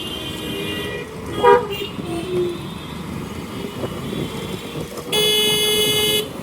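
Vehicle horns in road traffic over steady wind and road noise: a short beep about a second and a half in, and a steady horn held for just over a second near the end.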